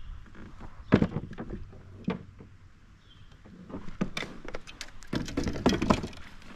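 Irregular knocks and clunks of a kayak hull and fishing gear being handled, a few sharp strikes with a quick cluster near the end.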